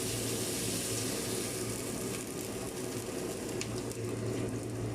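Chicken sizzling in a cooking pot, the hiss thinning after a second or so, over a steady low hum, with a few faint light clicks near the end.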